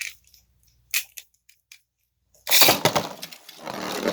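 A few sharp plastic clicks, then about two and a half seconds in, two Beyblade spinning tops are launched into a plastic stadium and start spinning and colliding: a sudden loud, dense rattling scrape.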